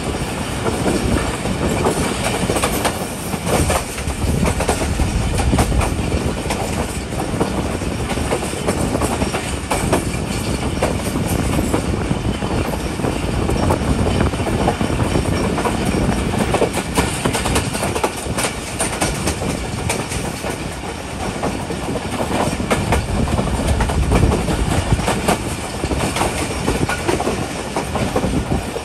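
Passenger train running slowly on the track: a steady rumble of wheels on rails, broken by irregular clicks from the rail joints.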